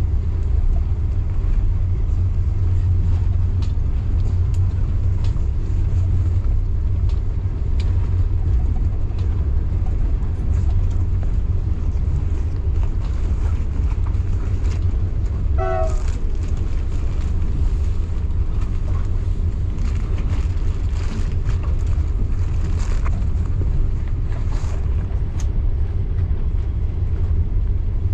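Train running along the track: a steady low rumble with scattered light clicks, and a brief high-pitched squeal about halfway through.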